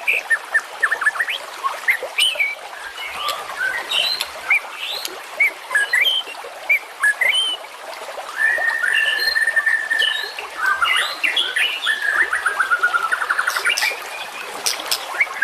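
Several songbirds singing and chirping over one another in a dense, varied stream of whistles and chirps, with a long even trill about a third of the way through and fast runs of repeated notes near the end.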